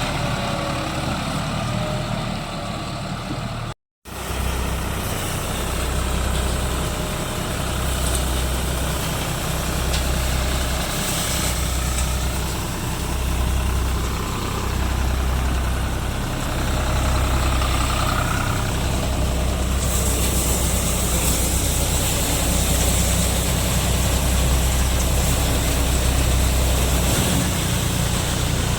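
Deutz-Fahr Agrolux 50 tractor's diesel engine running steadily while powering a multicrop thresher, with a low throb that swells and fades every second or two. The sound cuts out for a moment about four seconds in.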